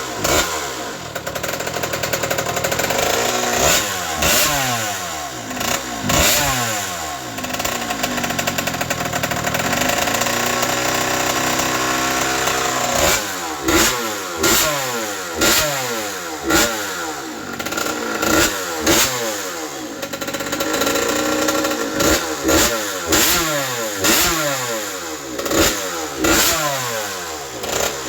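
Honda CR80R's 80cc two-stroke single-cylinder engine, freshly rebuilt, revved in repeated blips of the throttle, the pitch falling back between them, with a steadier stretch near the middle.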